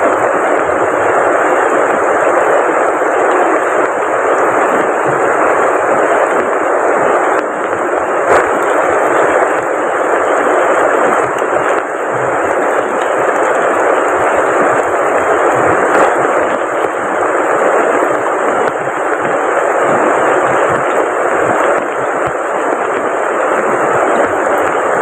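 Heavy rain falling steadily, blending with rushing river water into a continuous loud hiss. A thin, steady high-pitched tone sits above it throughout.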